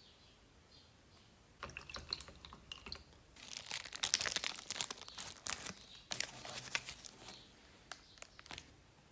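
Irregular crunching and crinkling in clusters of sharp clicks and scraping, loudest a few seconds in, with faint bird chirps at the start.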